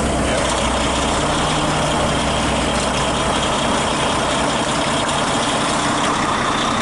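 Volvo 780 heavy-duty truck's diesel engine idling steadily just after starting, now that its battery cables have been cleaned and reconnected.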